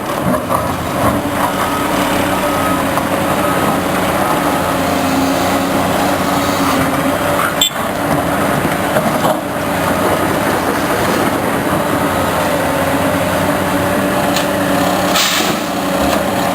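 Diesel engine of a Caterpillar loader running steadily and loud while working, with a few brief knocks and clanks about eight, nine and fifteen seconds in.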